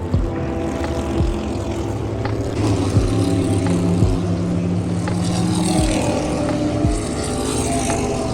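NASCAR Cup stock cars racing around the speedway, their V8 engines droning in a steady, layered note with some pitches sliding as cars pass. A few short low thumps are heard along the way.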